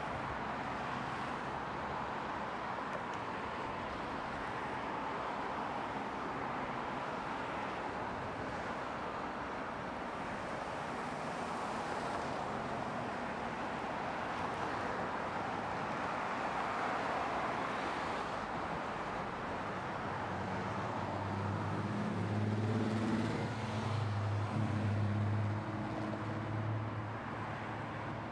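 Ferrari FF's 6.3-litre V12 idling steadily amid outdoor traffic hum. It grows louder for several seconds near the end.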